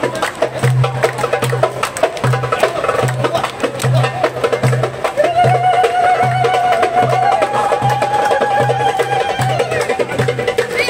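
Live street percussion in a traditional Turkish-style rhythm: hand-played drums with sharp strokes over a steady low beat about twice a second, with a held melody line over the top in the middle stretch.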